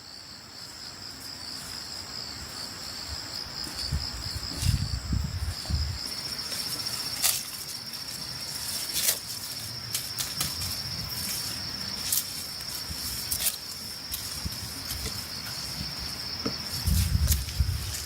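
An insect trills steadily in a high, finely pulsing tone, with scattered sharp clicks and low rustling swells around it.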